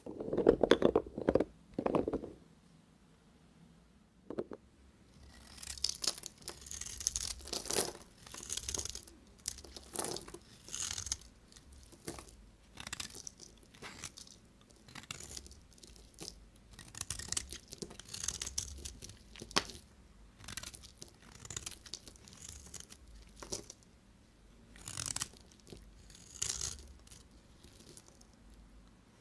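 Knife cutting through bar soap: a few loud crunchy cuts at the start, then after a short pause a long run of scraping, shaving strokes about once a second.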